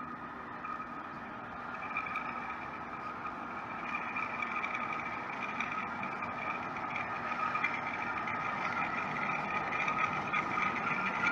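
Jet engines of a Boeing 747-8 (GEnx turbofans), a steady high whine over a rushing noise, growing steadily louder as the aircraft approaches.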